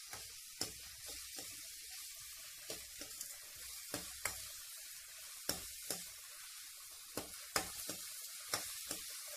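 Chopped onions and tomatoes sizzling in oil in a stainless steel kadai as they cook down. A spatula knocks and scrapes against the pan, one to two times a second, as they are stirred.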